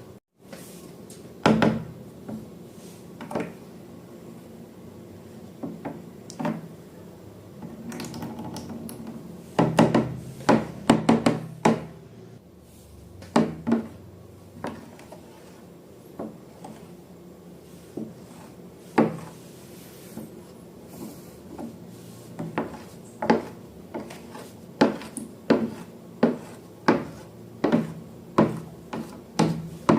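Repeated sharp knocks and taps of hard objects, irregular at first with a quick cluster about a third of the way in, then falling into about one knock a second in the last third.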